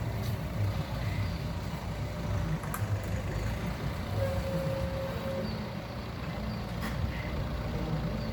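Road traffic: a large vehicle's engine running with a steady low rumble. A brief single tone sounds for about a second around four seconds in.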